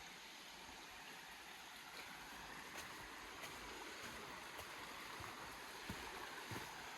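Faint steady rush of river water flowing through a gorge, with a few soft knocks near the end.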